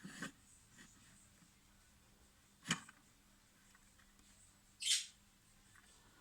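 Handling noise from a plastic toy: a sharp click a little under halfway through and a short hissing swish near the end, over a faint steady hum.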